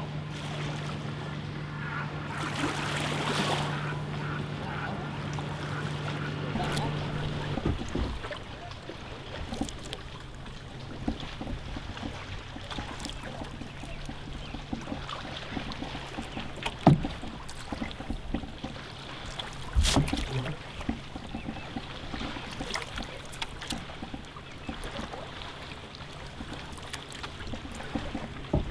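Canoe being paddled: paddle strokes and water lapping along the hull, with two sharp knocks of the paddle against the canoe past the middle. A steady low hum runs underneath, dropping slightly in pitch and level about a quarter of the way in.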